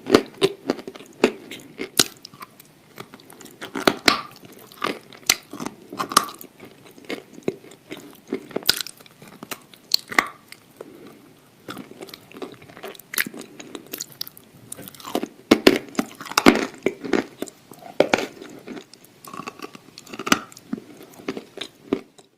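A person chewing and crunching a dry, crumbly edible clay, with irregular crisp crunches coming in clusters and a burst of louder crunching about two-thirds of the way through.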